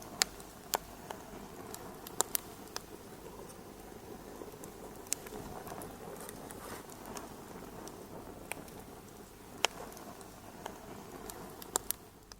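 Wood fire in a fireplace crackling: a steady low hiss of burning with irregular sharp pops and snaps, a few of them loud.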